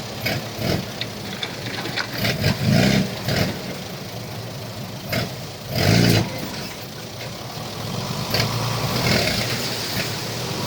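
Heavy diesel engine of earthmoving equipment running, surging louder twice, about two and a half and six seconds in, with scattered clanks.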